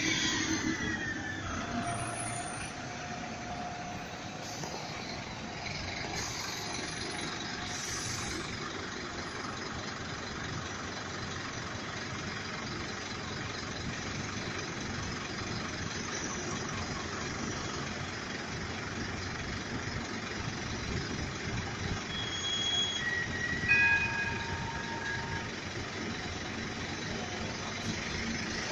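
Melbourne tram running on street track, a steady rumble throughout. A falling whine sounds as it moves off at the start, and a brief high wheel squeal comes a couple of seconds in.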